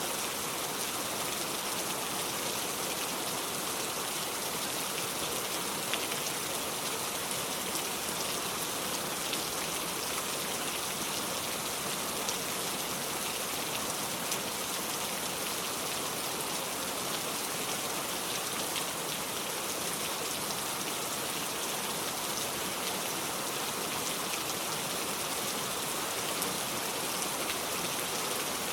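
Heavy rain falling steadily on a metal roof: a dense, even hiss with scattered individual drops ticking through it.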